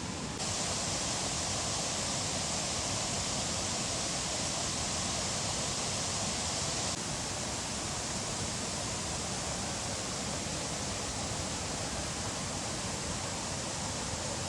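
Waterfall rushing, a steady even roar of falling water, with small jumps in level about half a second in and again about seven seconds in.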